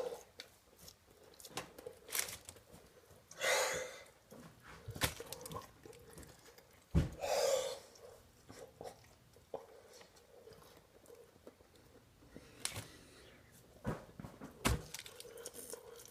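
A person chewing a mouthful of cold hot dog, with small wet mouth clicks and a few heavy breaths between bites.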